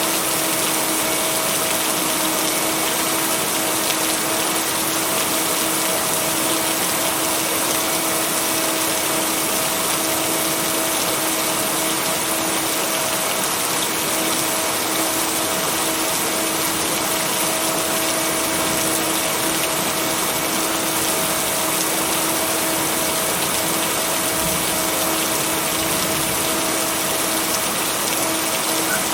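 Steady rain, an even unbroken hiss with no thunder claps. A steady humming tone runs beneath it: a mixed-in binaural-beat tone.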